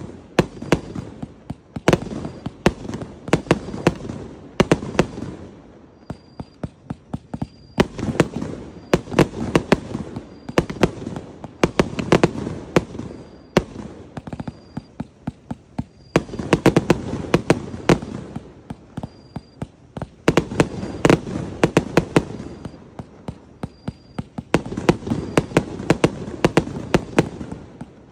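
Multi-shot fireworks battery (Vietnamese Bộ Quốc Phòng consumer fireworks) firing: a rapid string of sharp bangs from shells launching and bursting overhead, with crackle between them. The bangs come in volleys separated by short lulls.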